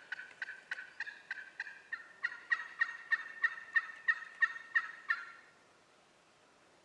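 A long series of turkey yelps, about three a second, getting louder about two seconds in and stopping about five seconds in.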